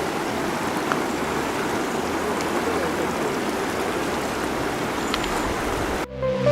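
Steady rush of running water, like a mountain stream, which cuts off suddenly near the end as electronic music begins.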